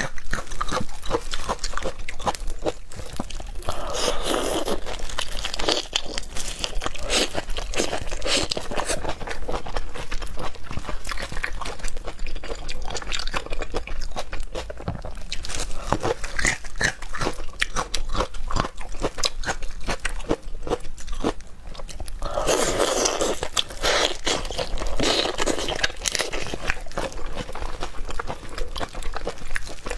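Close-miked chewing and crunching of seafood: wet mouth clicks and crunches throughout, with louder bouts of crunching about four seconds in and again a little after twenty-two seconds.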